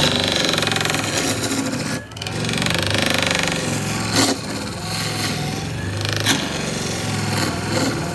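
A handheld power tool running under load on wood or resin, a steady hum with rough grinding noise that dips briefly about two seconds in.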